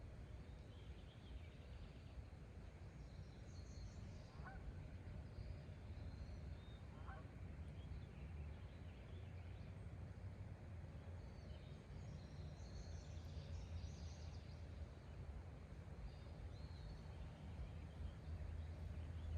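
Faint outdoor birdsong ambience: small birds chirping and trilling on and off over a steady low rumble, with two short, lower calls about four and a half and seven seconds in.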